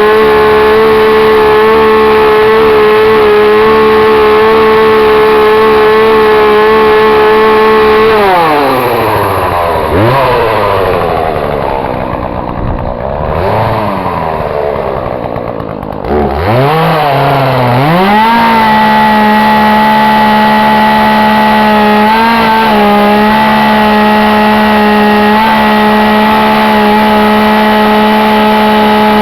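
Two-stroke chainsaw running flat out with a steady high pitch. About eight seconds in, the engine speed falls away and wavers low for several seconds, then climbs back to full speed and holds steady.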